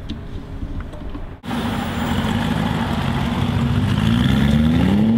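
Aston Martin Vantage V8 engine running, coming in suddenly about a second and a half in; near the end the revs climb.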